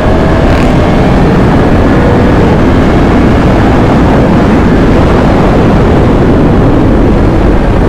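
Motorcycle riding at speed, with loud steady wind rush over the helmet-mounted camera's microphone and the engine's tone faintly audible beneath it near the start.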